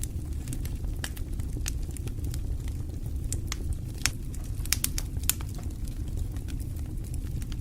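Wood fire burning in a fireplace: a steady low rumble of flame with irregular sharp crackles and pops from the burning logs, a small cluster of them about five seconds in.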